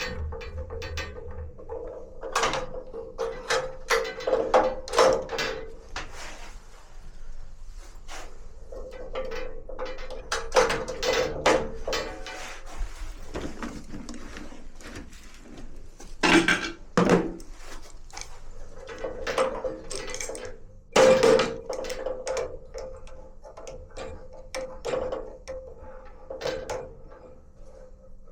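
Tools and metal and plastic parts of a Bosch gas water heater being handled during servicing: irregular clicks, clinks and knocks, with a few louder knocks a little past the middle and about three quarters of the way through.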